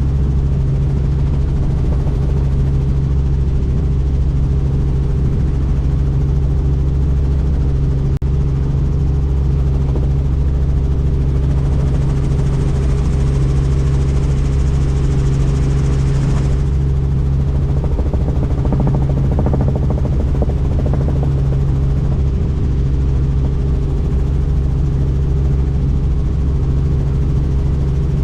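Helicopter in flight: the steady drone of the rotor and turbine. A high hiss rises in a little over ten seconds in and cuts off suddenly about five seconds later.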